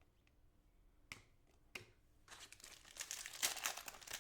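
Trading card pack wrapper crinkling and tearing open, starting about halfway in and getting louder toward the end, after a couple of light clicks of cards being handled.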